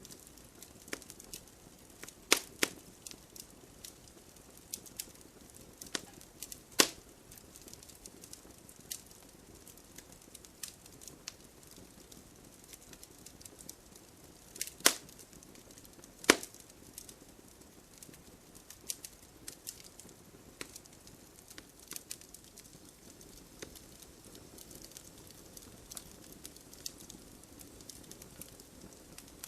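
Wood fire burning, logs crackling with irregular sharp pops over a low steady hiss; a few louder snaps stand out, around two and a half, seven, fifteen and sixteen seconds in.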